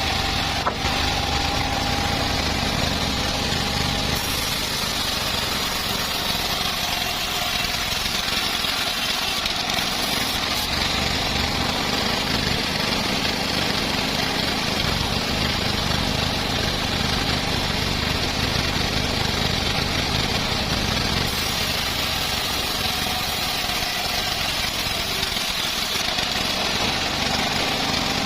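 Homemade bandsaw sawmill running steadily while it saws a large teak log, an even engine-like drone. A faint whine over the drone fades out after a few seconds and comes back near the end, and there is a single sharp click about a second in.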